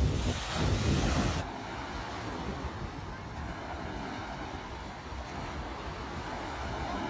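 Ocean surf washing on a beach, with wind buffeting the microphone. About a second and a half in, the sound cuts abruptly to a softer, duller, steady wash of waves.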